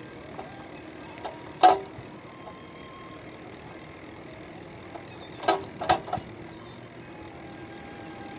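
Steady road noise from a bike ride, with one loud sharp knock about a second and a half in and a quick run of three knocks around six seconds in.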